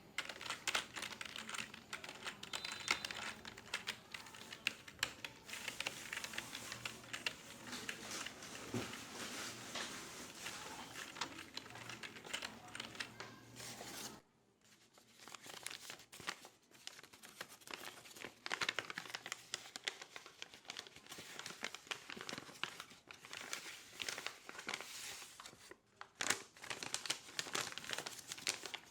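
Office ambience of dense, rapid clicking and rustling, like keyboard typing mixed with paper handling. It breaks off briefly about fourteen seconds in, then carries on.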